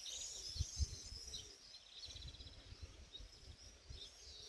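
Several birds singing and chirping, with quick trills, over a low, uneven rumble.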